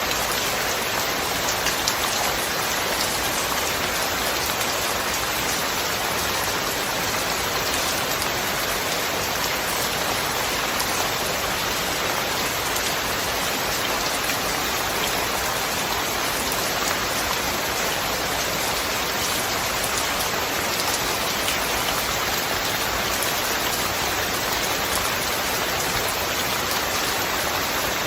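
Steady rain falling on a surface, with faint scattered drop ticks.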